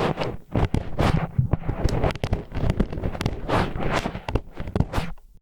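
ASMR ear cleaning with disposable wooden chopsticks: close, rough scraping and grinding with many sharp clicks and scratches in quick, irregular succession. It cuts off abruptly at the end.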